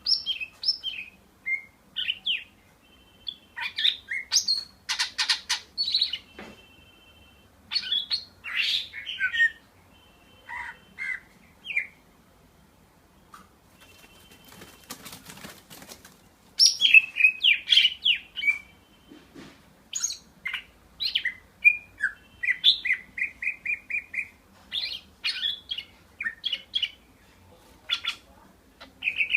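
Pet leafbird singing a varied, chattering song of short chirps and whistles, with a quick run of evenly spaced notes about three quarters of the way through.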